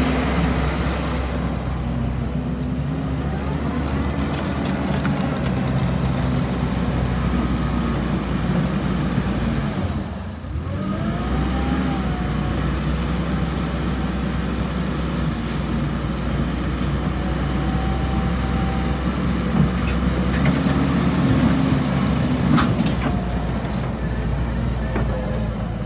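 Kubota SVL90-2 skid steer's diesel engine running steadily, its note dropping briefly about ten seconds in and then coming back up with a short rising whine. A few clicks near the end.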